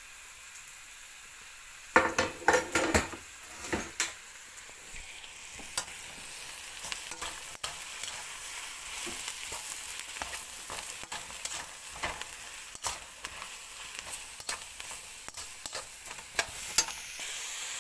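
Sliced mushrooms and onion frying in oil in a wok-style pan, turned with a spatula. There is a steady sizzle with a run of sharp knocks against the pan about two seconds in, and the sizzle grows louder after that, with scattered clicks.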